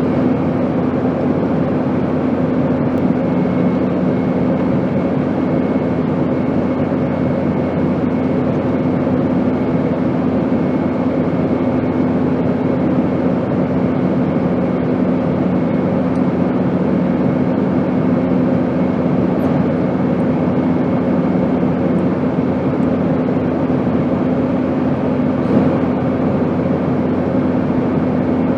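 Steady airplane noise: an even rush of air with a constant engine drone holding a few fixed hum tones, unchanging throughout.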